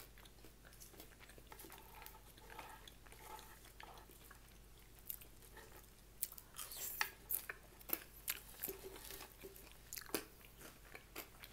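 Close-up eating sounds: a person chewing food, with crisp crunchy clicks of biting and chewing that come thickest in the second half.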